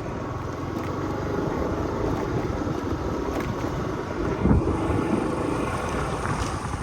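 Scooter riding over a rough gravel road: steady engine and tyre rumble, with one louder jolt about four and a half seconds in.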